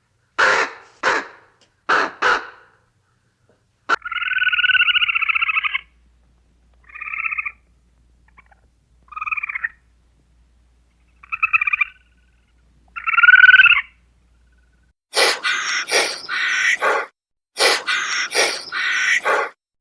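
A series of animal calls: a few short calls, then four spaced, buzzy calls, the first the longest at about two seconds, then from about three-quarters of the way in a quick run of short calls.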